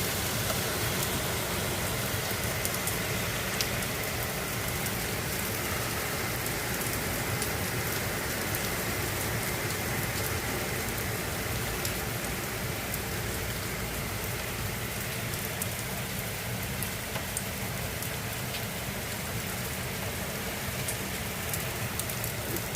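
Thunderstorm rain falling steadily, with scattered sharp ticks of drops striking nearby surfaces.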